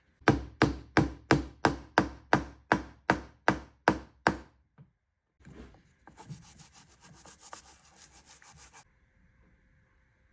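A hammer or mallet driving a wooden wedge into a chair leg's tenon: about a dozen sharp strikes, roughly three a second, each ringing briefly. After a short pause comes a steady rasping scrape of about three seconds that cuts off suddenly, typical of sawing or rasping the wedge flush.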